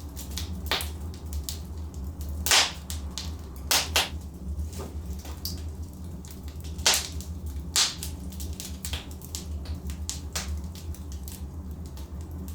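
Logs burning in a fireplace, giving off irregular sharp crackles and pops, the loudest about two and a half seconds in, over a steady low background.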